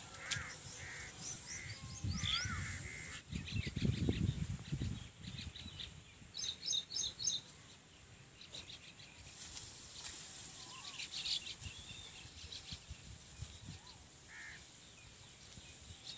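Birds chirping and calling on and off, with a quick run of repeated chirps about six to seven seconds in. A low rumbling noise swells from about two to five seconds in.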